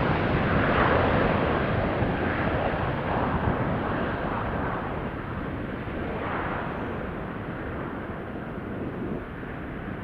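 Jet airliner's engines at takeoff power as it departs, a deep rumbling noise that slowly fades as the aircraft climbs away.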